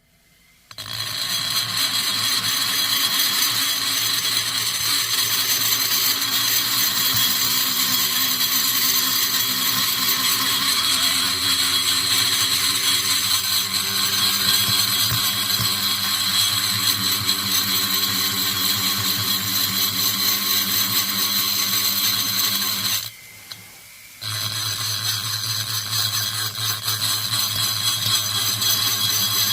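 High-speed rotary tool grinding the exhaust port of a Stihl MS460 chainsaw cylinder, a steady high-pitched whine. It starts about a second in, drops away for about a second near the end, then runs again.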